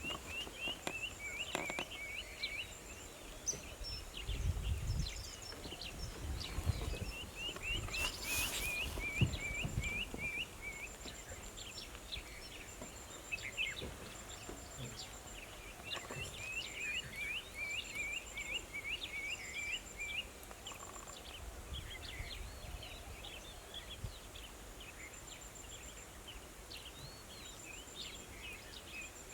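Outdoor ambience with a bird calling in quick series of short, high chirps, pausing and starting again several times, over faint high rapid pulsing in short runs and occasional low rumbles.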